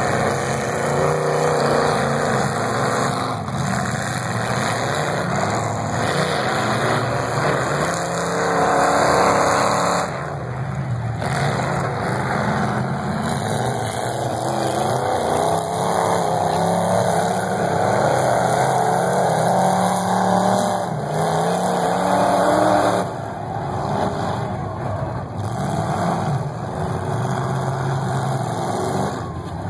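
Several demolition derby cars' engines running loud together, their pitch rising and falling as the drivers rev and back off the throttle. The sound dips briefly about a third of the way in and again about three-quarters of the way through.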